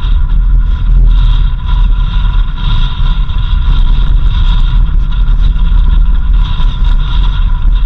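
Vehicle driving steadily: a heavy low rumble of engine and road noise, with a steady higher whine above it.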